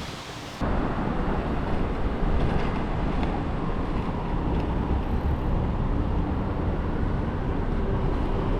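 City street traffic noise with a steady low rumble, heard from a moving bicycle. The sound jumps suddenly louder less than a second in.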